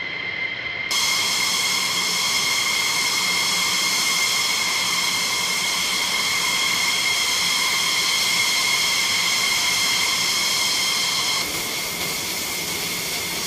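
F-16 fighter jet engines running on the ground: a steady, high-pitched turbine whine of several tones over a loud hiss. It grows louder and brighter about a second in and turns duller near the end.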